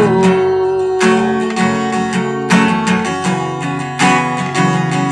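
Acoustic guitar strummed in a steady rhythm, with a strong chord stroke about every second and a half and quicker strums between.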